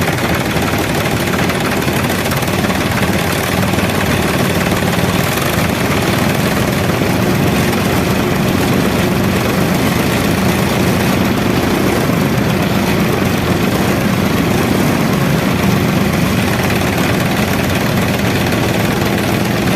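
Engine running steadily under even, continuous noise, with no change in pace.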